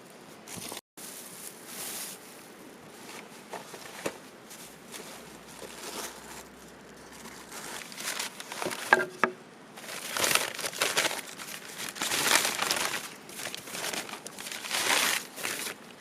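Rustling and crinkling in irregular bursts, louder through the second half, with a few faint short chirps about nine seconds in.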